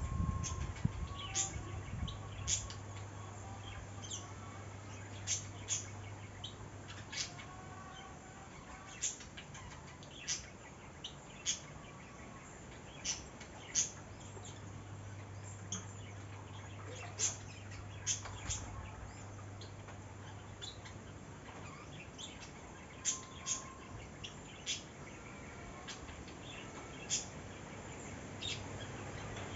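Small birds chirping: short, sharp high calls every second or so, with a few softer warbling notes, over a low steady hum that fades out for a few seconds midway.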